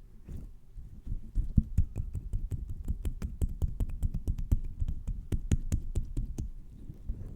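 A fast, uneven run of close-up taps, several a second, starting about a second in and easing off near the end.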